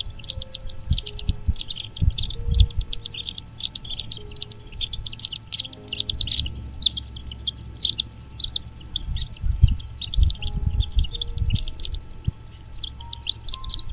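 Birds chirping rapidly and continuously in quick high-pitched runs, over soft background music with held notes.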